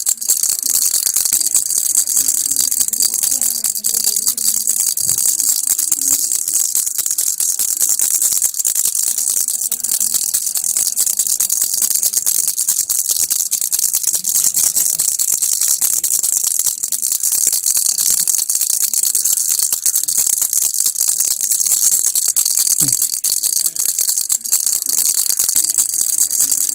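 Baby rattle (kilukki) shaken without a break: a dense, steady stream of small, bright clicks.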